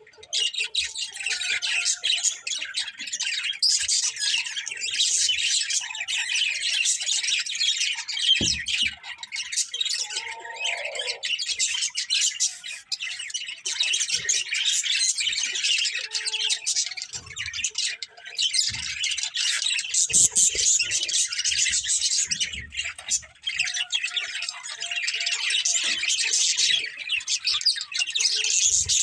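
A flock of budgerigars chirping and chattering all at once, a dense, continuous twittering with no pauses.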